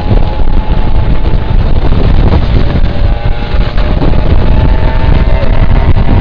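Motorbike riding at speed: heavy wind buffeting on the microphone with the engine's steady running note underneath, its pitch drifting only slightly.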